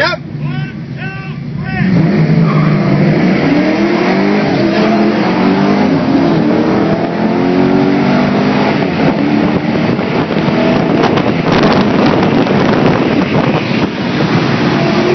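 Modified V8 Mustangs at wide-open throttle in a street drag race, engine pitch climbing in several long pulls through the gears, with road and wind rush. A short run of repeated chirps comes just before the engines come up to full noise.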